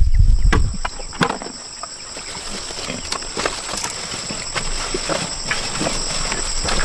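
Insects droning in the jungle as two steady high-pitched tones, with scattered sharp clicks and knocks. A low rumble fades out about a second in.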